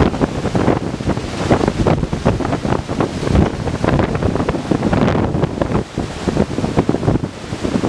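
Hurricane-force storm wind gusting hard and buffeting the microphone in a constant, uneven rumble.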